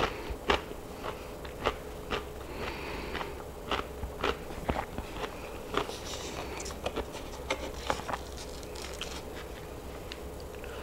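Close-miked chewing with many sharp wet mouth clicks, then, about halfway in, fingers pulling apart a piece of baked chicken with a brief crackle.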